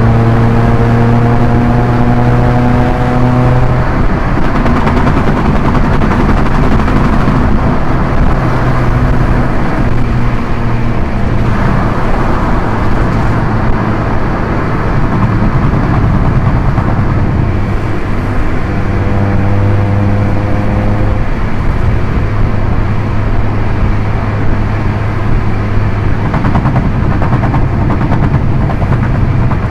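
Proton Inspira 1.8E's 1.8-litre four-cylinder engine at high expressway speed, mixed with steady tyre and wind noise. The engine note pulls and rises slowly for the first few seconds, then sinks into the road and wind noise. It comes back around two-thirds of the way through and again near the end.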